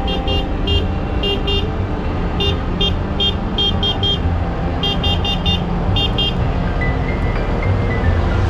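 Tractor engines running steadily, with many short, high-pitched beeps sounding in irregular clusters over the top.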